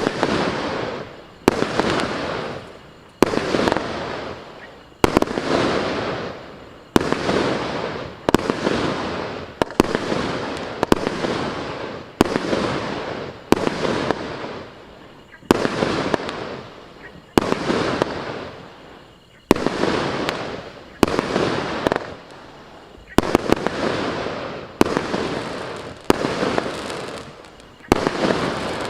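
Maxsem EASTER MC118 fireworks cake (0.8–1 inch calibre) firing shot after shot, about one every one and a half to two seconds. Each bang trails off over a second or so before the next.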